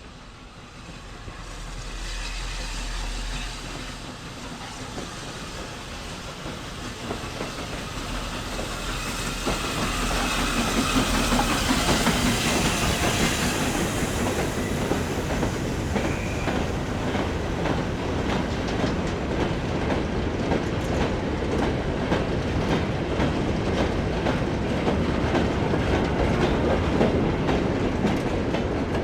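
Train running through the station without stopping. It grows louder as it approaches, then comes a long steady run of wheels clicking over the rail joints as the carriages go past.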